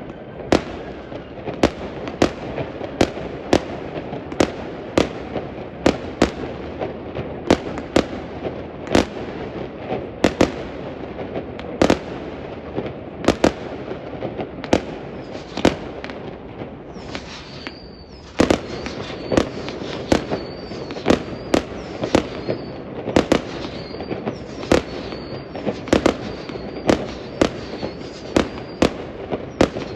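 Fireworks display: aerial shells bursting one after another, about one or two sharp bangs a second over a continuous rumble and crackle, with short high whistles through the second half.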